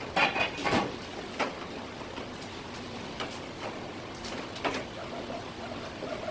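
Knife and cutting-board noises from filleting a rock bream for sashimi: a burst of scraping in the first second, then scattered taps and knocks.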